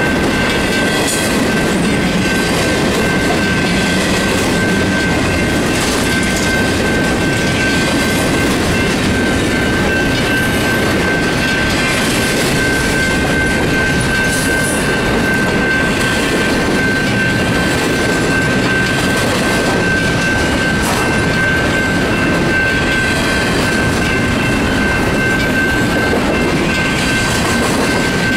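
Double-stack intermodal freight cars rolling steadily past: a continuous rumble with the clatter of wheels on the rails and an occasional clank, under a steady high-pitched tone that lasts throughout.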